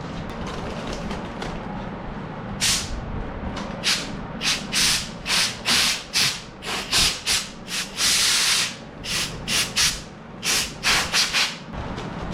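Compressed air let out in short hissing blasts, about eighteen in quick succession with one longer blast near the middle, over a steady low hum.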